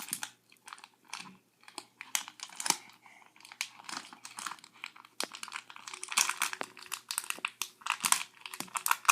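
A child's hands crinkling and crumpling a blind-bag packet while trying to tear it open. The crackles come in irregular fits and starts, with a short lull about three seconds in.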